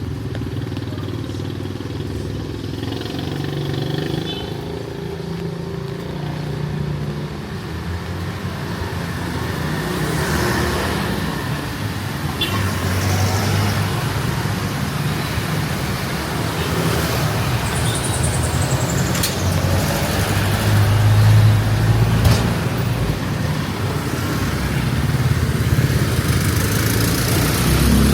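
Street traffic: cars and motorcycles running past, the engine noise building to its loudest a little past the middle.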